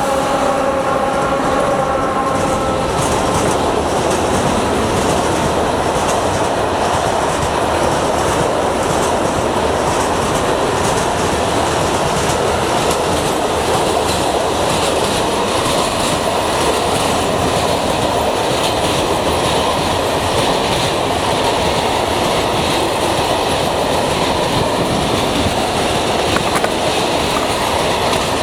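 Heavy freight train rolling past: steady wheel and wagon noise with a clickety-clack over the rail joints. A whine in the first few seconds fades out.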